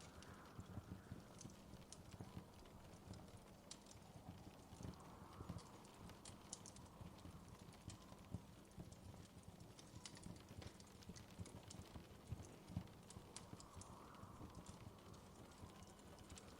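Wood fire crackling: irregular small pops and snaps over a soft steady hiss.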